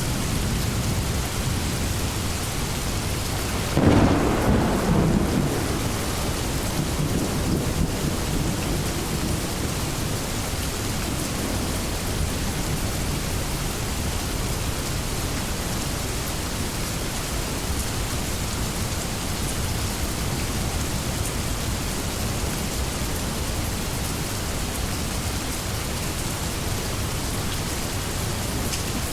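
Steady heavy rain with a clap of thunder about four seconds in, starting sharply and rolling off into a low rumble over the next few seconds.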